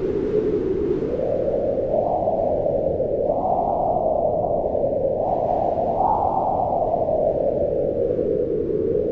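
Wind howling steadily, a hollow moaning whose pitch swells up and sinks back in slow waves, rising about two, three and six seconds in and falling away near the end.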